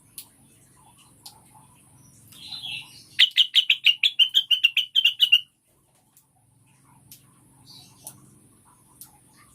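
Female blue-winged leafbird (cucak wilis) calling: a short rasp about two seconds in, then a fast run of about twenty sharp, high notes lasting about two seconds that stops abruptly, with faint scattered chips around it. It is a female's call to a male.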